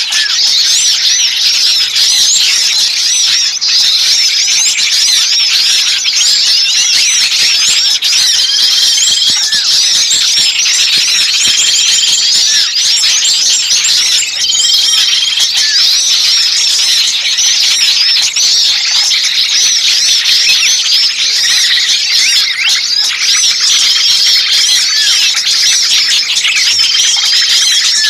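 Bird-lure recording of many small birds chirping and twittering at once in a dense, busy chorus, with a short steady whistled note recurring every few seconds.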